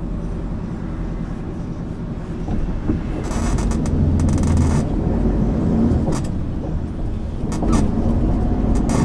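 1999 MAN ÜL 353 intercity bus's diesel engine running under way, growing louder from about three seconds in, with a few short rattling clicks.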